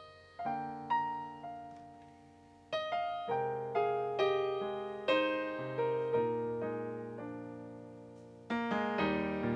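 A synthesizer on a piano sound plays a slow melody over chords, each note fading after it is struck. Near the end it grows louder, with fuller chords and quicker repeated notes.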